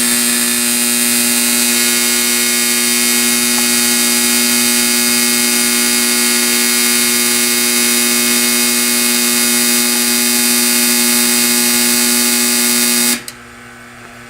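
Operating model-train layout accessory running with a steady electric buzz, which cuts off abruptly about thirteen seconds in as it is switched off.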